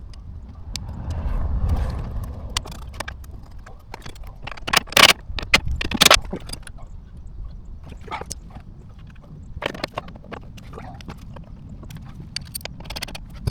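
Irregular knocks, clunks and scrapes of hands and tools working on a car, with a few sharp loud knocks about five to six seconds in and a short rumbling scrape near the start.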